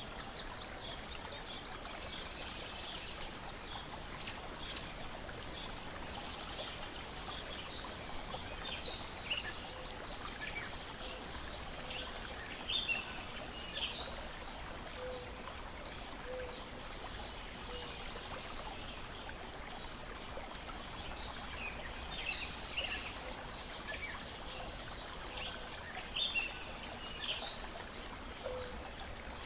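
Lake water lapping and trickling steadily, with birds chirping in short high calls throughout, busiest in two spells around the middle and near the end.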